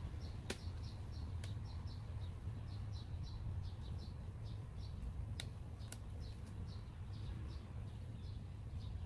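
A small bird chirping over and over, short high chirps several times a second, over a low steady rumble. Four sharp clicks cut in, two near the start and two a little past the middle.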